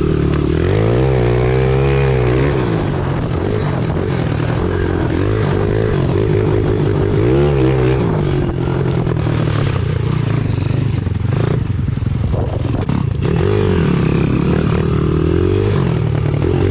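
Pit bike engine revving, its pitch climbing and falling back several times: about a second in, again near the middle, and near the end. This is the engine of a bike struggling in mud, where the rear wheel keeps spinning.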